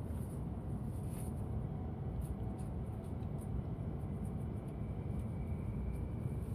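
Steady low rumble of a Tohoku Shinkansen train running, heard from inside the passenger car, with a few faint ticks and a faint thin whine near the end.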